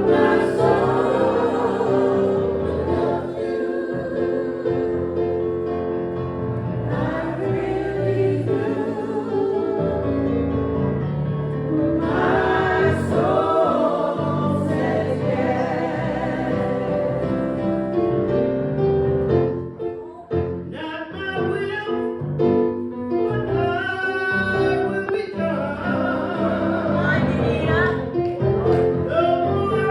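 A church congregation singing a hymn together, with long held notes.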